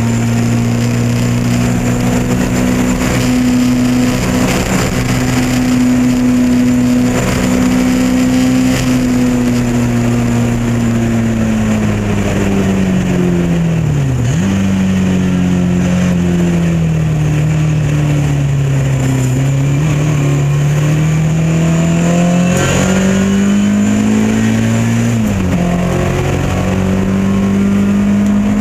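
Lotus Elan race car engine at racing speed: revs held high, then falling under braking with a downshift about halfway through, climbing hard again and dropping with an upshift near the end.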